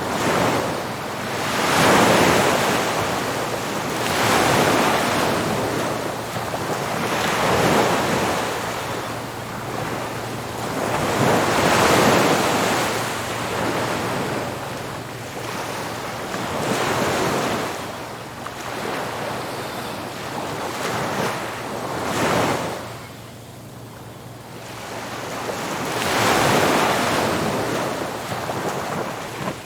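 Ocean surf breaking on a beach, one wave washing in after another every few seconds as a rising and falling rush of noise, with a brief lull about three-quarters of the way through.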